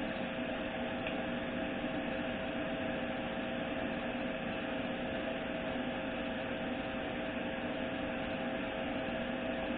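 Steady mechanical hum and hiss with a few constant tones, unchanging throughout, with no knocks or clicks.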